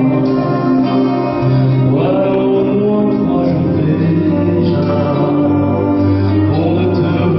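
A French song by a vocal duo: sung voices over a steady instrumental accompaniment, with new sung phrases sliding in about two seconds in and again near the end.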